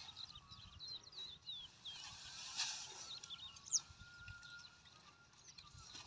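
Small birds chirping in open farmland: many short calls that glide up and down, with one sharp, louder note in the middle. A brief rustle comes about two and a half seconds in.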